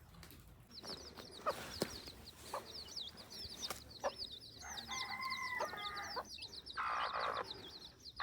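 Domestic chickens calling, with a rooster crowing about five seconds in. A rapid, high-pitched chirping repeats several times a second behind them.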